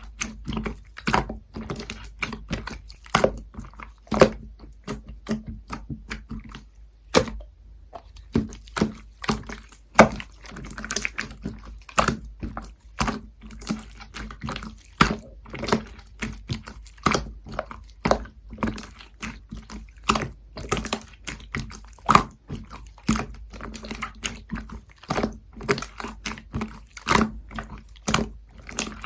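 Clear slime being squished and pressed by hand, giving quick irregular sticky clicks and pops, with a short pause about seven seconds in.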